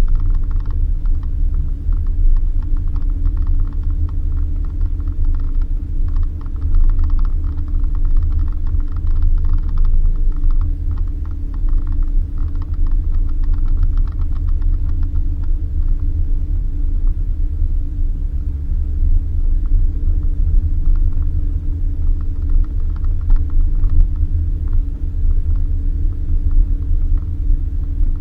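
Suzuki Jimny driving on a dirt road: a steady low rumble, with quick rattling and creaking throughout.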